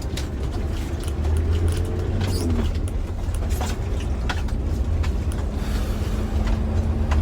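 Toyota Land Cruiser 70's engine idling: a steady low rumble with scattered light clicks.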